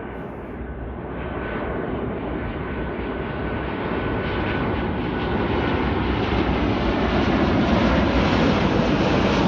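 Jet engines of a Boeing 737-81M airliner on approach to land: a steady rushing rumble that grows steadily louder as the plane comes closer.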